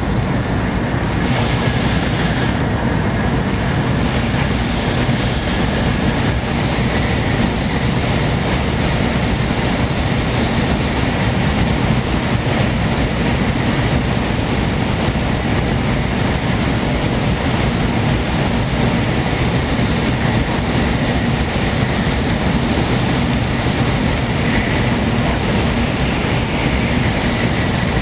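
Steady running noise of a Shinkansen bullet train at speed, heard from inside the passenger car: a constant low rush of wheels on rail and air, likely through a tunnel.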